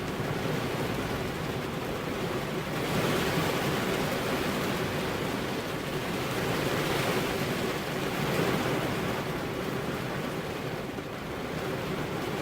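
Rain falling on a car's windows, a steady rush of drops that swells a little heavier about three seconds in and again around the middle.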